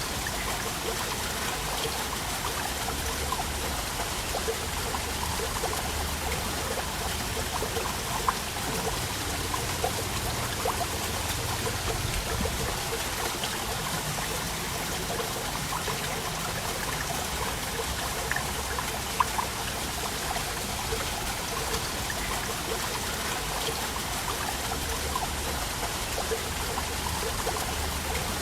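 Waterfall: water falling and splashing steadily in a continuous rushing hiss, with small splashes flickering through it.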